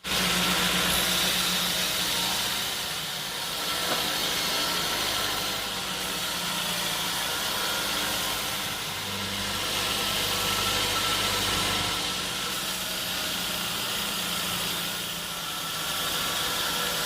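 An engine running steadily with a hiss over it, its low note shifting to a different pitch every few seconds.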